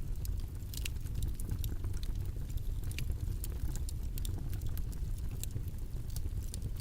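Steady low rumbling background noise with scattered small clicks and crackles over it.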